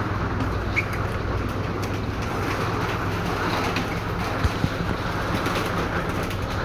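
Steady low mechanical hum under a rushing noise, with a few light knocks.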